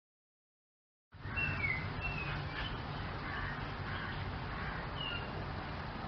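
About a second of silence, then outdoor ambience: several short, high bird chirps over a steady background noise, bunched soon after the sound begins and once more near the end.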